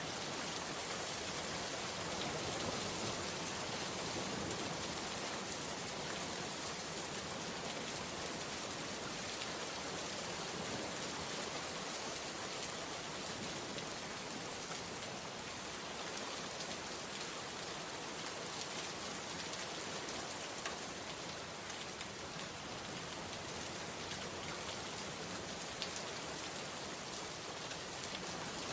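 Steady rainfall: an even hiss of rain with a few slightly louder drips standing out here and there.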